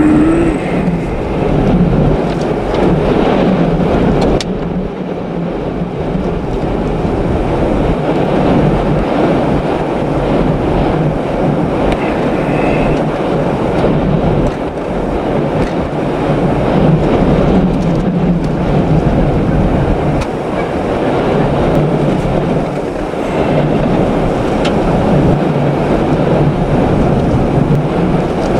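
Heavy, continuous rumble of a vehicle on the road in gale-force wind, the gusts buffeting it so the noise swells and dips.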